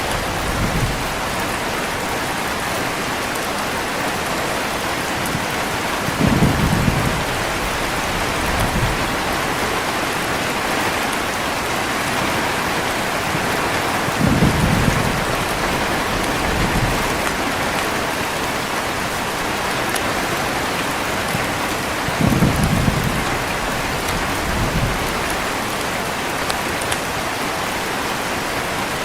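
Steady heavy rain hissing, with low rolls of thunder swelling about every eight seconds, three times, each followed by a fainter rumble a couple of seconds later.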